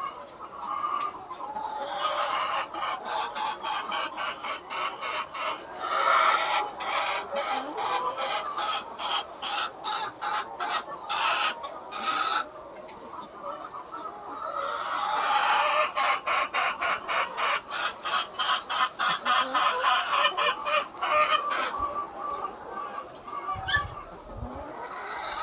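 A flock of laying hens clucking, many birds calling over one another in dense, rapid bouts with brief quieter lulls in between.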